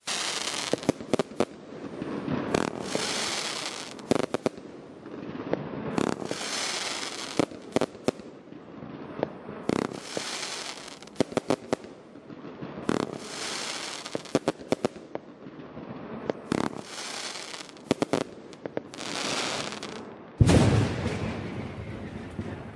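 Dominator firework going off in a run of repeated shots: bursts of crackling hiss about every two seconds, with sharp bangs among them and a louder, deeper boom about twenty seconds in.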